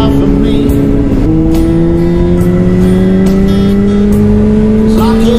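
Honda CBR600RR's inline-four with a Leo Vince exhaust under acceleration: the revs drop sharply at an upshift about a second in, then climb steadily through the next gear. Background music plays underneath.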